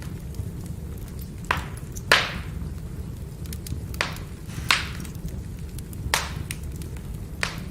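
Burning firewood crackling over a steady low rumble of the fire, with about half a dozen sharp pops, the loudest about two seconds in.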